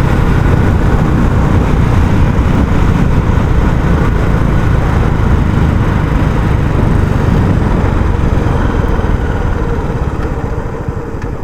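Royal Enfield Classic 350 single-cylinder engine through its stock exhaust, the steady low thump of the bike under way. The sound eases off over the last couple of seconds.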